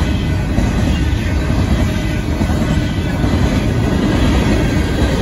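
Union Pacific grain train passing, a steady loud rumble of steel wheels on the rails.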